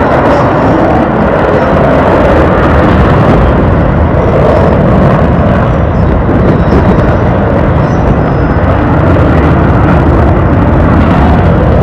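Loud, steady engine noise of an aircraft flying past at an air show, a dense rushing noise with no breaks.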